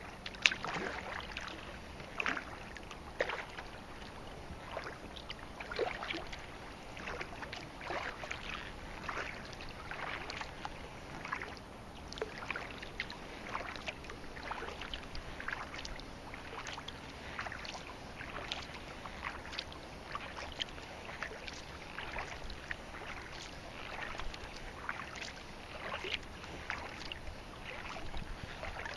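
Kayak paddle strokes: the blades dip and splash into the water, with drips in between, about once or twice a second.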